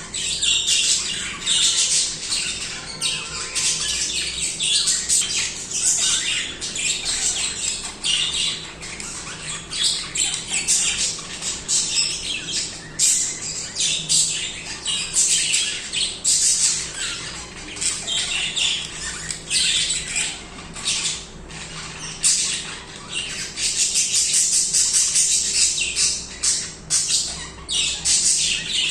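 Several budgerigars chattering and warbling without a break: a dense mix of quick chirps, squawks and clicky notes.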